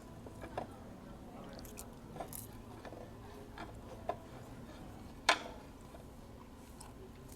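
Table noise during a meal: a few small clicks and one sharper clack about five seconds in, over a low steady room hum.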